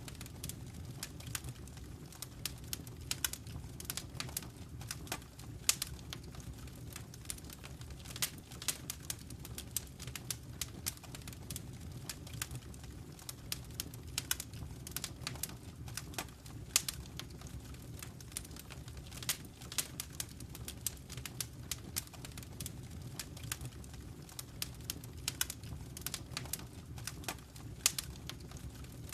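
Wood fire crackling in a fireplace: a constant irregular stream of small pops and snaps over a low, even rumble of the flames.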